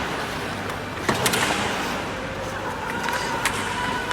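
Game sounds during play: several sharp knocks and clacks over a steady hubbub of distant voices, with a faint held high tone in the second half.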